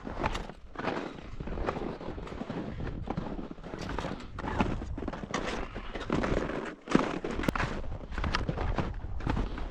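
Footsteps crunching in snow and ice, about two steps a second in an uneven walking rhythm, over a steady low rumble.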